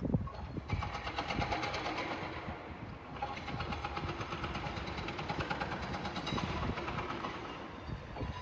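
A train approaching out of sight, heard as a steady rattling, hissing rail noise with a fast clicking rhythm that sets in about a second in.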